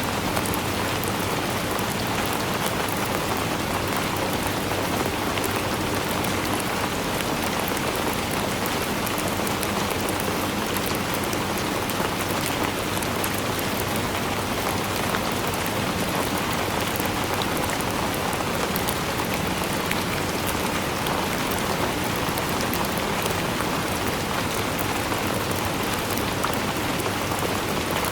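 Steady rainfall with dense pattering of drops on a surface, holding an even level throughout.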